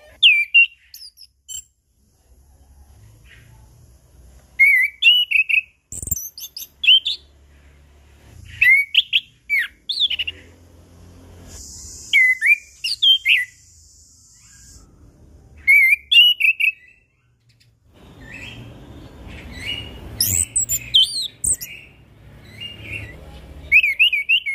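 Chestnut-capped thrush (anis kembang) singing in short bursts of quick, gliding whistled notes, with brief pauses between phrases. A steady hiss runs for about three seconds in the middle.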